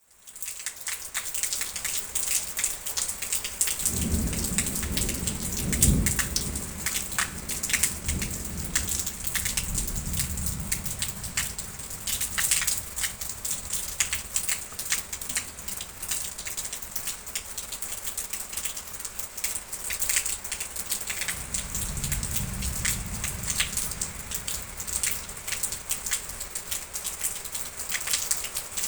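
Steady rain falling on a surface with a dense patter of individual drops, and low rolling thunder rumbling twice, from about 4 seconds in and again around 21 seconds.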